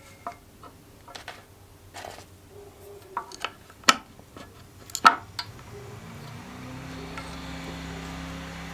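Metal tools and engine parts clinking and knocking against each other in irregular taps, the loudest two about four and five seconds in. A steady low background hum, most likely background music, fades in from about six and a half seconds.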